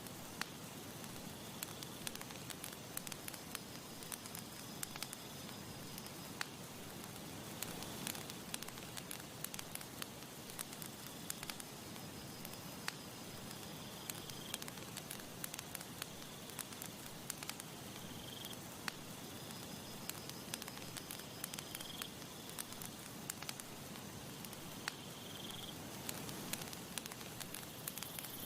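Campfire crackling, with frequent sharp pops and snaps over a soft steady hiss. In the second half, faint short high chirps come back every three to four seconds.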